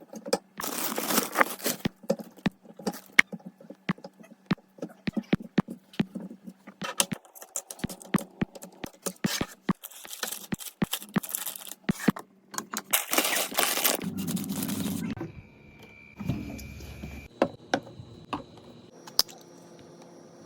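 Groceries and containers being handled and set down: bursts of crinkling and rustling mixed with many sharp clicks and taps. A brief steady tone sounds about three quarters of the way through.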